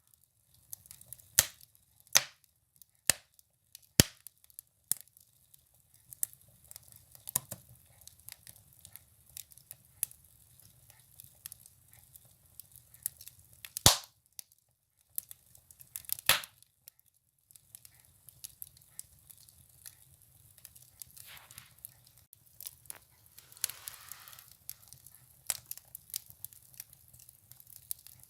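Firewood burning in a wood stove, crackling with irregular sharp pops and snaps over a faint low rumble of the fire, with a soft hiss about three quarters of the way through.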